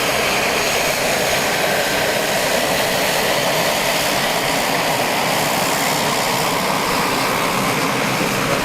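Aircraft engine noise, steady and loud, with a slow dip and rise in pitch near the middle.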